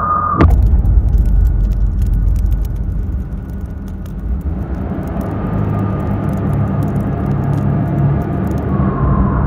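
A motor vehicle running with a heavy, steady low rumble, a sharp click about half a second in, and faint scattered clicks throughout.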